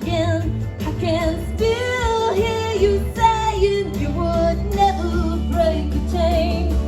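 Live band music with a female lead vocal singing a wavering, held melody over steady bass and backing instruments.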